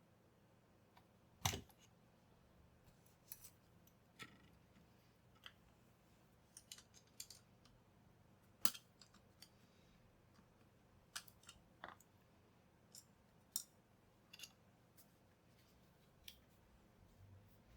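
Sparse small sharp clicks and snips of hand tools and plastic parts being handled on a workbench, about a dozen spread irregularly, the loudest about a second and a half in and again near the middle.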